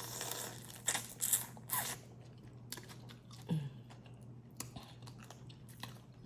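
Crawfish being eaten close to the microphone: a series of short, sharp shell cracks and crunches with chewing in between.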